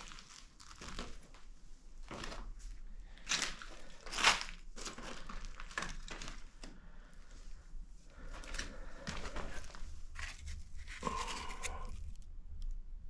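Dry debris from under a removed wooden floor crunching and rustling as it is stirred and stepped through, in irregular crackles with a few sharper crunches.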